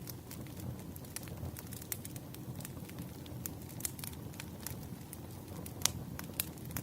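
Wood fire crackling: a steady low rumble of burning logs with scattered sharp pops and snaps, the loudest pop near the end.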